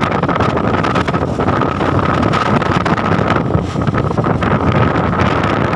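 Strong wind buffeting the microphone over the running noise of a vehicle crossing a bridge, a dense steady rumble with a thin steady whine that fades in and out.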